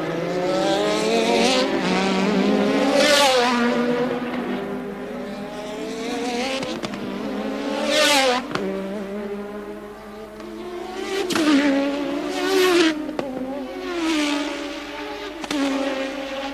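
1983 Formula One cars racing past one after another at speed, each engine note rising to a loud peak and dropping in pitch as the car goes by; about half a dozen pass-bys, the loudest around 3, 8, 11 and 13 seconds in.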